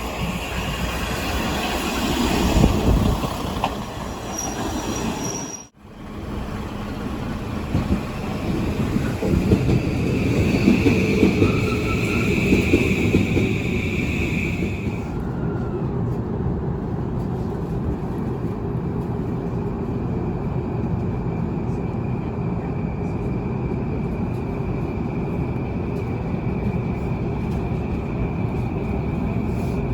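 Uchibo Line rapid train running on the rails, with a high wheel squeal between about 10 and 15 seconds in, then steady running noise. The sound cuts off abruptly for a moment about six seconds in.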